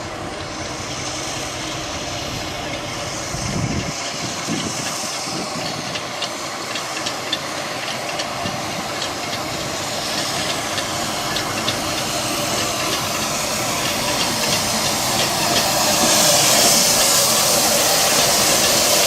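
Steam locomotive hissing steam and growing steadily louder, with light clicks from about four seconds in.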